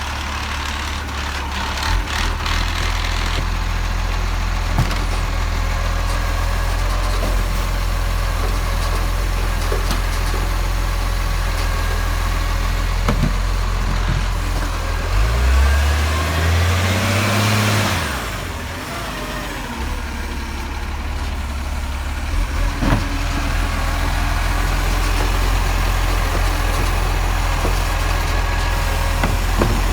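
Garbage truck engine running with a steady low drone. About halfway through it revs up, rising in pitch for a couple of seconds, then drops back to a steady run. A few short knocks sound along the way.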